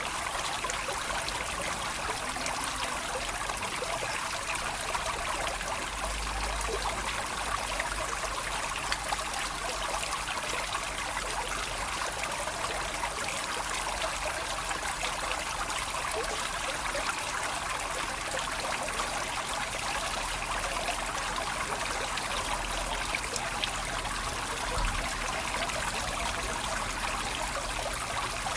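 Water babbling and trickling steadily, as from a small stream. A couple of brief low rumbles come through near the quarter mark and again near the end.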